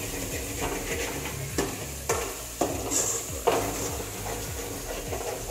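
A metal spatula scraping and stirring around a metal kadai, with ginger paste sizzling as it fries in oil. The scrapes come about twice a second and are sharpest around the middle.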